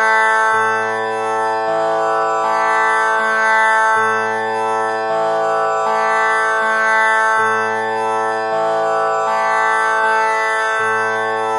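Tanpura drone tuned to A (6 kattai), its strings plucked in turn in a slow cycle that repeats about every three and a half seconds, the notes ringing on into one another as a continuous drone.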